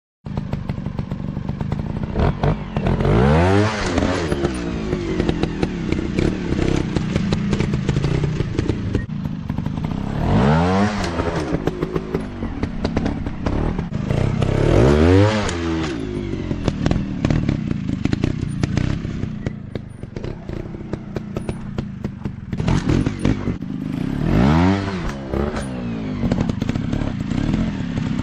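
Dirt bike engines running and revving hard, the pitch climbing and dropping back four times, with clattering and knocks from the bikes over rough ground.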